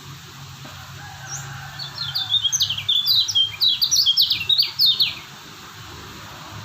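Kecial kuning white-eye singing a fast, twittering burst of quick down-slurred notes, starting about a second in and lasting about four seconds, over a faint steady low hum.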